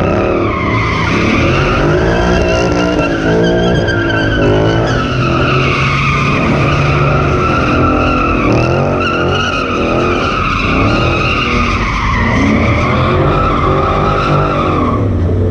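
A car drifting, its tyres squealing without a break for about fifteen seconds while the engine revs up and down under it.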